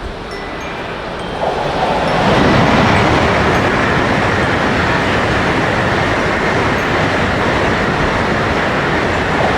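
A train passing: a dense rumbling noise that swells about a second and a half in, then holds loud and steady.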